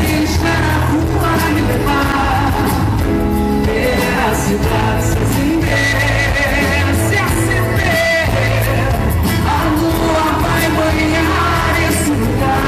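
Live pop band playing loudly over a steady bass line, with a voice singing.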